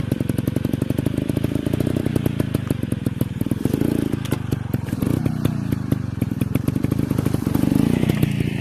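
Dirt bike engine running at a low, steady speed, its firing pulses coming in a fast, even patter.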